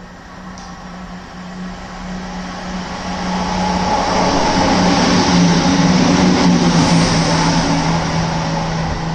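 Train passing through the station, its noise swelling to a peak about halfway through and easing slightly. A steady hum drops in pitch as it goes by.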